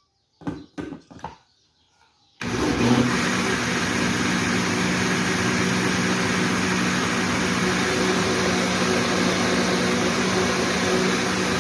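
A few short knocks, then about two seconds in a kitchen blender switches on and runs steadily at full speed, its motor humming under a loud even whir as it mixes a homemade soap batter of oil, caustic soda and rice.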